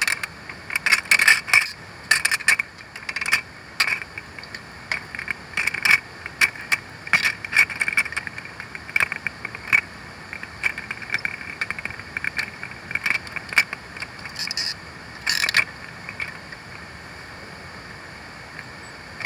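Irregular light metallic clinks and ticks, each with a brief ring, coming thick and fast, then thinning out after about fifteen seconds.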